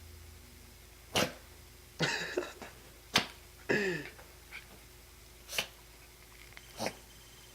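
Two wolf pups playing: several short, sharp huffs or snorts, about four in all, and two brief pitched whines, the second sliding down in pitch.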